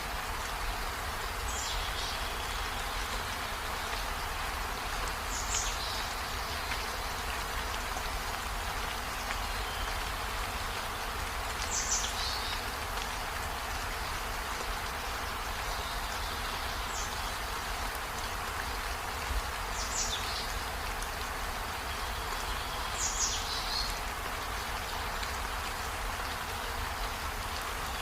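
Steady rain falling, an even hiss. Six short, high chirps stand out above it, spaced a few seconds apart.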